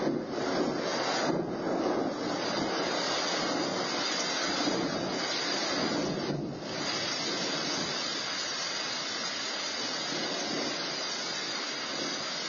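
Steady hiss of a thunderstorm, picked up by an outdoor security camera's microphone, a little louder and gustier in the first couple of seconds.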